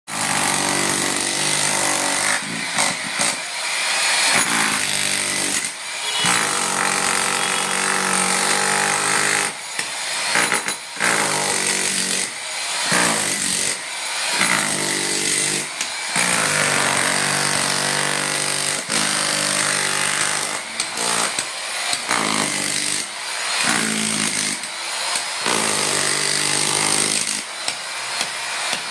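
A power tool running in repeated bursts, its motor stopping briefly and starting again every one to two seconds.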